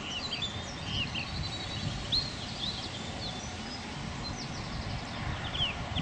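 Small birds chirping and twittering in short, quick calls over steady low outdoor background noise.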